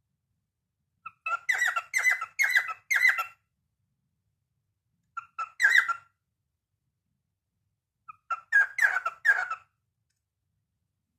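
Cockatiel singing: three short bursts of quick chirping, whistled notes with pauses of a couple of seconds between them. The first burst has four or five notes, the second two, and the last several.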